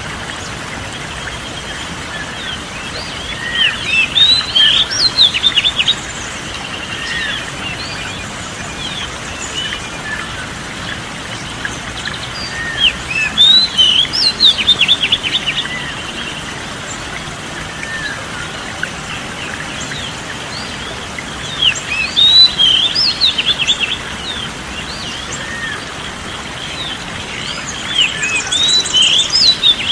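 Songbird singing in bursts of quick chirps and whistles, each burst about three seconds long and coming about every nine seconds, over a steady hiss.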